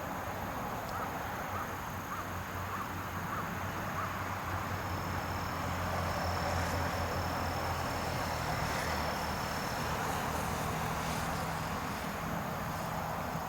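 Farm tractor engine running steadily, its hum rising in pitch about halfway through, with insects chirping and a thin high buzz in the middle.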